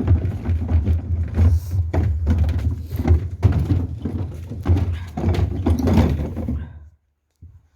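Wind buffeting the microphone: a loud, uneven low rumble broken by repeated thumps, cutting off suddenly about seven seconds in.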